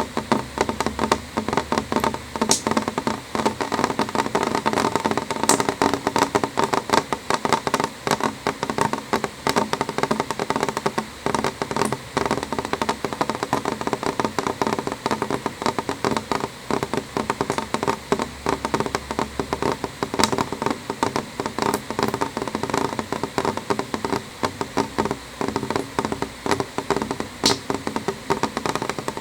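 Rain drops tapping steadily on a window pane: a dense, irregular run of small taps with a few sharper clicks here and there.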